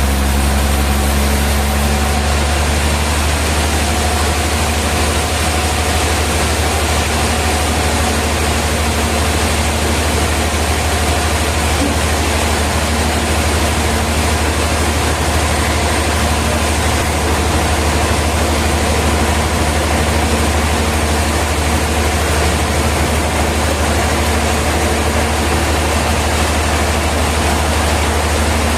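Sawmill machinery running steadily: a low, even engine-like hum under a constant wash of mechanical noise, with no change in pitch or level.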